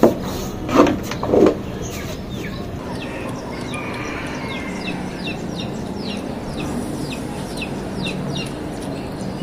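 Three short handling noises in the first second and a half, from the metal intercooler being tilted and shaken. Then a small bird calls over and over, with quick, high, falling chirps about twice a second.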